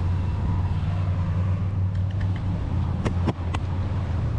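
A motor vehicle engine running steadily at idle with a low hum, and a few sharp clicks about three seconds in.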